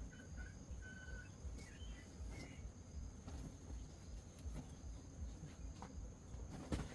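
Rural outdoor ambience: a steady high insect drone, with short bird chirps in the first couple of seconds. A low rumble runs underneath, and a few sharp knocks fall through it, the loudest just before the end.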